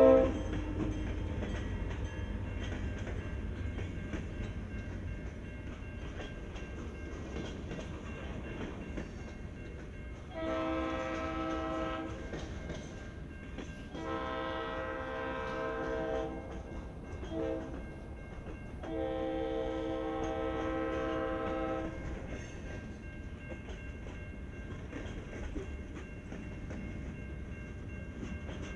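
Freight train cars rolling past on the rails with a steady rumble and clacking. The locomotive's air horn is loud and cuts off right at the start, then sounds again more distantly from about ten seconds in: two long blasts, a short one and a long one, the standard grade-crossing signal.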